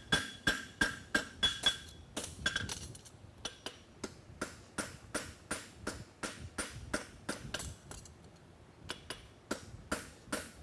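Farrier's hand hammer striking a hot steel horseshoe on an anvil in steady blows, about two or three a second. The anvil rings in the first few seconds. The blows pause briefly a little past halfway, then resume. This is the medial branch of a double caulkin hind shoe being forged and tapered down.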